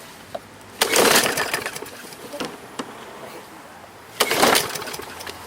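Recoil starter on a 140cc Briggs & Stratton lawn mower engine pulled twice, about a second in and again about four seconds in: each pull a short rasping whirr as the engine turns over without catching. The engine won't start, from fuel not getting through the carburetor.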